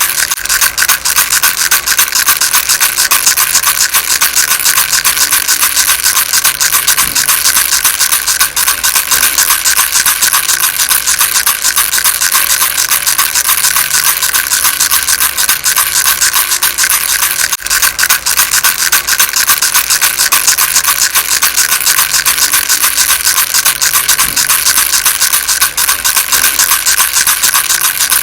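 Baby rattle shaken nonstop: a dense, steady rattle of rapid clicks with no pauses.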